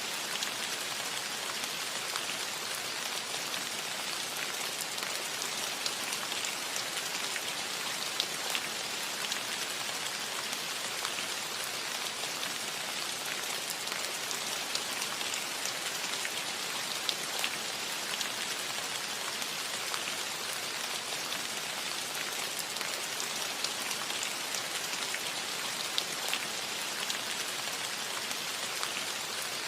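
Steady light rain on a metal roof: an even patter, dotted with the sharper ticks of single drops striking the metal.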